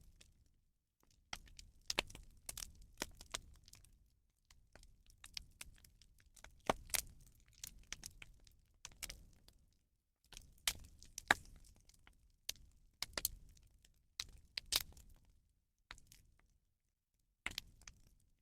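Rubbish bonfire crackling: irregular runs of sharp snaps and pops, broken by short pauses.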